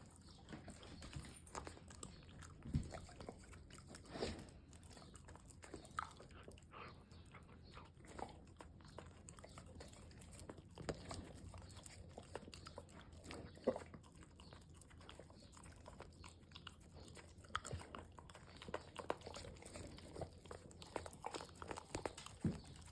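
German Shepherd puppy licking and mouthing peanut butter: a steady, irregular run of small lapping and mouth-smacking clicks, with a few louder smacks scattered through.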